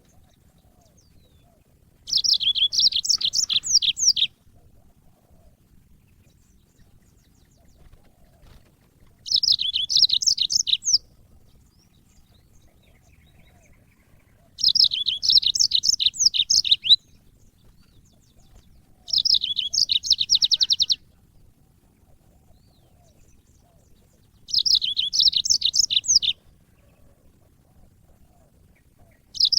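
Yellow-fronted canary (Mozambique canary) singing: five short bursts of rapid, high trilled song, each about two seconds long, separated by pauses of a few seconds.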